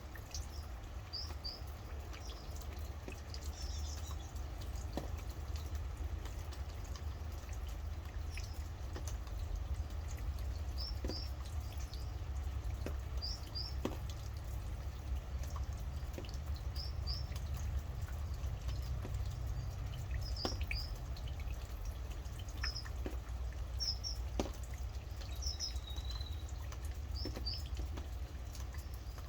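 Steady rain with drops ticking and dripping over a low rumble, while a bird repeats a short, high double chirp every second or two.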